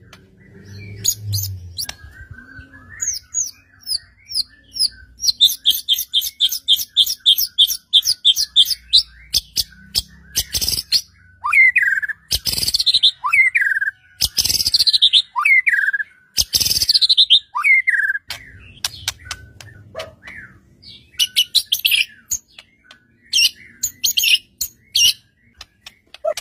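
White-rumped shama in full, constant song. It gives sharp clicking notes, then a fast run of repeated high notes, then a string of whistled notes that slide downward, with more varied phrases near the end.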